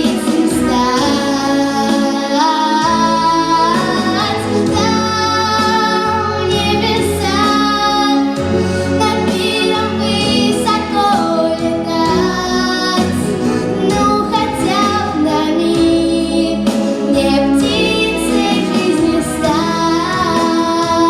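A girl singing a song over an instrumental accompaniment, holding long notes with vibrato.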